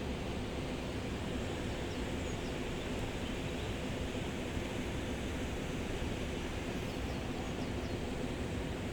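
Flowing water of the Gave de Pau river, a steady, even rushing noise with no change in level.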